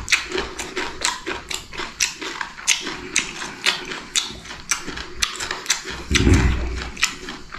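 Close-up crunching of a man chewing raw cucumber: crisp, irregular crunches a few times a second. About six seconds in there is a short low vocal sound.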